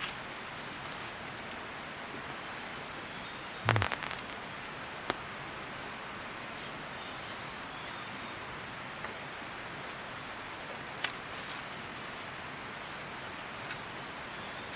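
Steady, even rushing hiss of the kind rain or running water makes, with one sharp knock about four seconds in and a couple of fainter clicks later.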